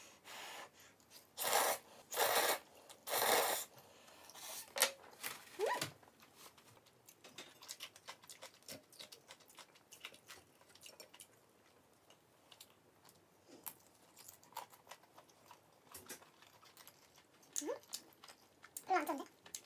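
Close-miked eating of spicy buldak noodles and cheese kielbasa sausage: three loud mouthfuls taken in the first few seconds, then steady chewing with many small wet clicks.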